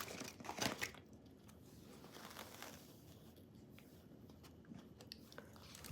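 A few crisp crackling, crunching sounds in the first second, as a fried chicken tender is handled and bitten, then only faint small mouth and handling noises.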